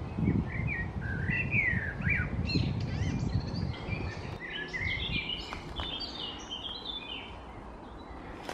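Several small songbirds chirping and singing in woodland, in quick, varied phrases throughout. For the first half there is a low rumble on the microphone, which is the loudest thing early on and dies away after about four seconds.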